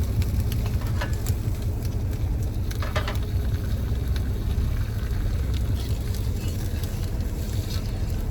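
A folded slice of turkey frying in olive oil spray in a pan, sizzling faintly over a steady low rumble, with light clicks about one and three seconds in.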